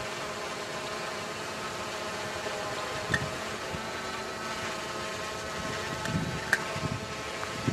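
Steady drone of a slow-moving Amtrak train with a GE P32AC-DM diesel locomotive, running at a distance, holding several steady tones. Two short sharp clicks come about three seconds in and again about six and a half seconds in.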